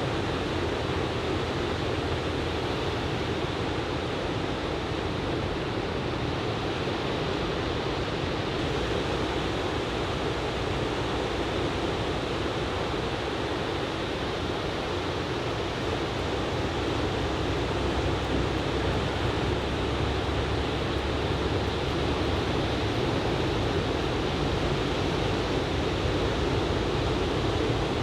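Ocean surf breaking continuously on a sandy beach as a steady wash of noise, the waves raised by a typhoon swell.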